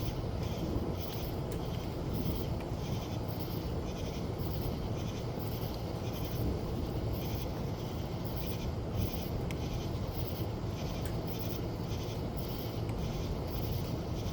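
Steady rain with a low rumbling hiss, and a high, rhythmic chirping pulsing about twice a second over it.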